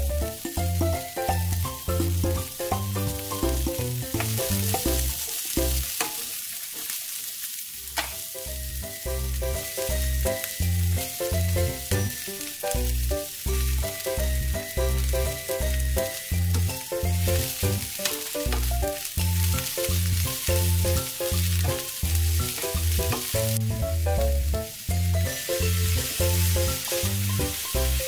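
Shredded cabbage, carrots and Korean fish cake sheets sizzling in hot oil in a frying pan as they are stir-fried, a steady hiss. Background music with a steady beat plays over it, dropping out for a couple of seconds about six seconds in.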